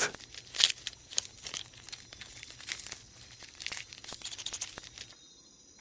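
Faint scattered crackling and rustling over a low steady hum, cutting to near silence about five seconds in.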